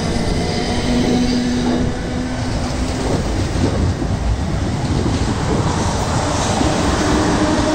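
A train running past on the track: a loud, steady rumble of wheels on rail with faint humming tones in it.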